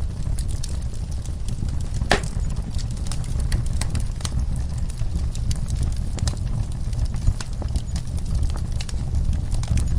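Wood fire crackling, with irregular snaps and pops from the burning logs over a steady low rumble; one louder pop comes about two seconds in.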